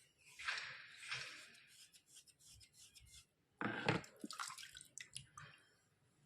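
Wet, crackly scraping and crumbling of white slate-pencil chalk, in several separate bursts scattered with small clicks.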